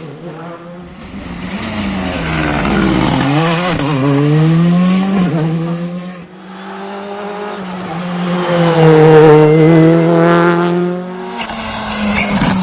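Rally car engine revving hard, its pitch climbing and dropping with throttle and gear changes, loudest about three-quarters of the way through, with tyres squealing.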